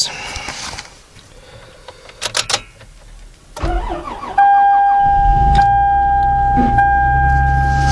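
2005 Toyota Sienna's 3.3-litre V6 cold-started after sitting in sub-zero cold: a few clicks, a short burst of starter cranking, then the engine catches about four and a half seconds in and runs steadily. A steady high whine starts the moment it fires.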